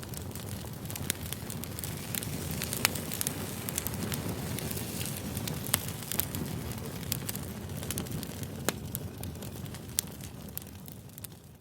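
Campfire crackling: a steady hiss with frequent sharp pops and snaps, fading down near the end.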